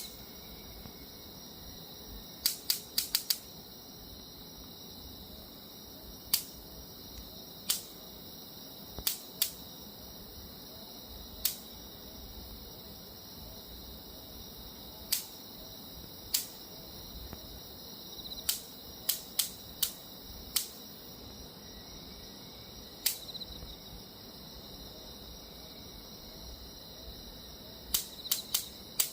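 Electric bug zapper snapping sharply as mosquitoes hit its charged grid. The snaps come at irregular intervals, some alone and some in quick runs of two to four, over a steady high-pitched hum.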